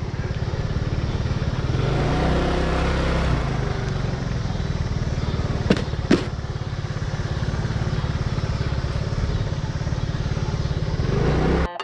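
Vehicle engine running steadily, with two short clicks a little after the middle; the sound cuts off abruptly near the end.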